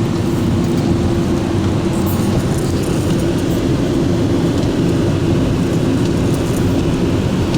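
Ryko Radius automatic car wash machinery running: a loud, steady rushing noise with a constant hum.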